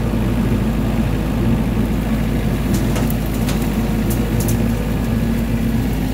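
Small tractor's engine running steadily at lowered RPM, driving a rear-mounted brush hog whose spinning blade adds a steady hum as it crosses brush. A few short high crackles come through between about three and four and a half seconds in.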